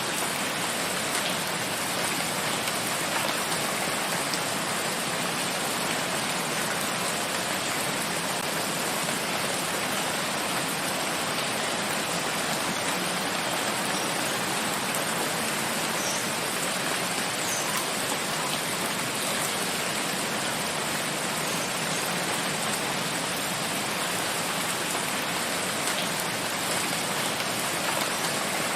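Steady heavy rain falling in a forest, a constant even hiss of drops.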